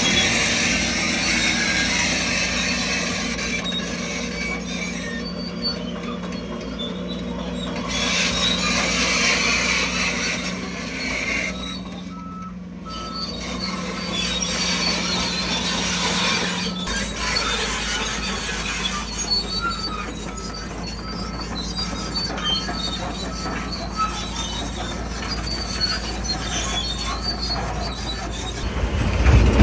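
Crawler bulldozer working: its diesel engine runs steadily while its steel tracks squeal, and the engine note shifts a little past halfway.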